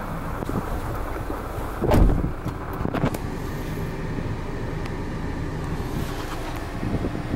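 Nissan Serena's 2.0-litre four-cylinder engine idling steadily, heard from inside the cabin. A dull thump about two seconds in and a click a second later.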